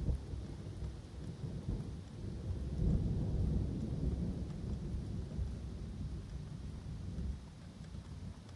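Rolling thunder in a summer thunderstorm over woodland: a deep rumble that swells about three seconds in and slowly dies away near the end, with steady rain hissing underneath.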